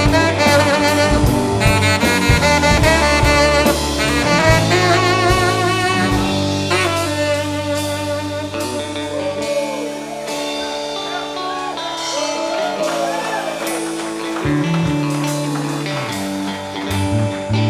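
A rock band playing live, with a saxophone taking a solo over the band. About nine or ten seconds in the bass drops out and the band plays quieter.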